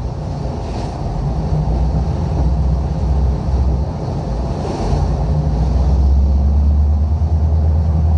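Storm wind and sea on the microphone: a deep, steady rumble with a hiss of wind and water over it. Two brief hissing washes come through, about a second in and again near five seconds.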